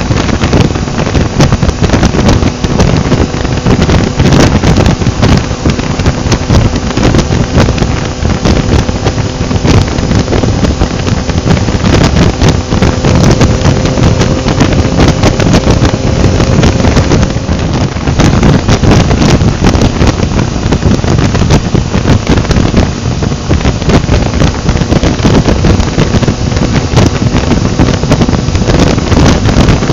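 Heavy wind buffeting on the microphone of a moving motorcycle at road speed, over the faint steady note of the 2023 Yamaha XSR900's engine, whose pitch rises slightly in the middle.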